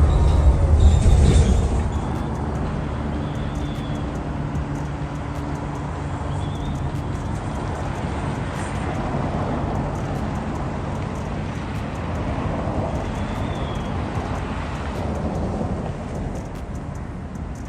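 Road traffic: a vehicle's low engine rumble is loudest for the first two seconds, then eases into a steady hum of passing traffic.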